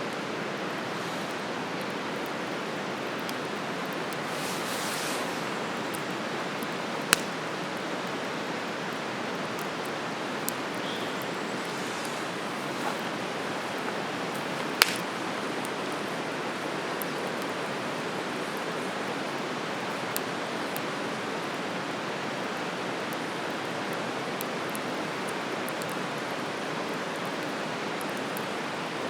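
Campfire crackling, with a handful of sharp pops (the loudest about 7 and 15 seconds in) over a steady rushing hiss.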